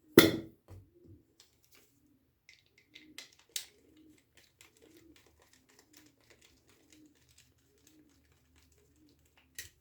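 A sharp click at the start, then scattered small metallic clicks and taps, one louder about three and a half seconds in, as the original metal clamps are worked off the filter capacitors. Faint repeated low bird cooing underneath from about three seconds on.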